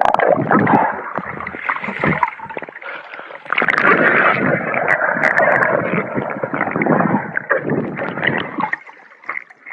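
Sea water splashing and gurgling right at the microphone while swimming. It comes in two stretches with a short lull about three seconds in, and dies away near the end.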